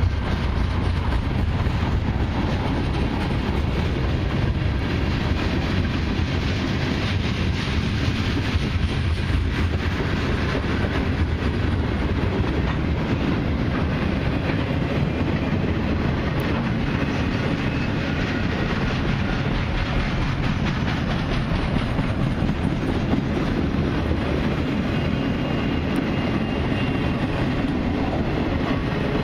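A long CN freight train of mixed cars and autoracks rolling steadily past, its steel wheels clattering over the rail joints.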